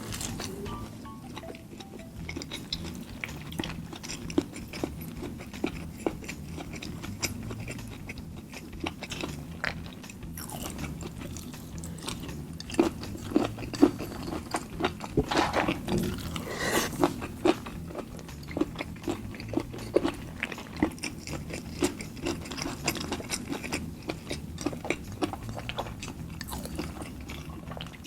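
Close-miked chewing and biting of spiced chicken, with many quick crisp clicks and moist mouth sounds, busiest about halfway through.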